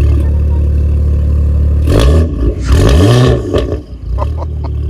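BMW F80 M3's twin-turbo straight-six idling, then revved twice about two seconds in, the second blip held longer, with a few sharp pops from the exhaust as the revs fall back to idle.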